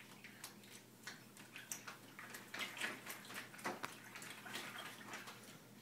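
Irregular light clicking and rattling of a toothpick model building being shaken apart, with loose toothpicks clattering down as it collapses.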